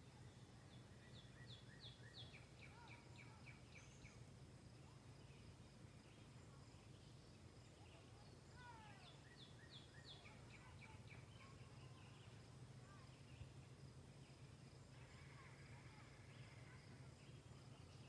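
Faint woodland bird song. A series of short, quickly repeated notes comes twice, with a few sliding calls between them, over a low steady hum.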